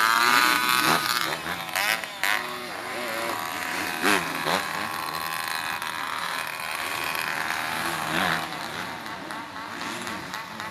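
Motocross bikes racing on the track, their engines revving up and down as riders pass, with several loud passes, the loudest near the start.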